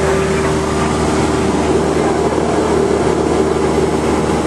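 Cessna 172's piston engine and propeller running steadily: an even drone with a held tone.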